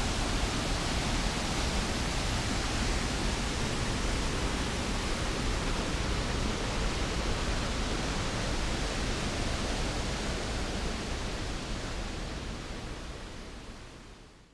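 A large waterfall pouring: a steady, dense rush of falling water that fades out over the last few seconds.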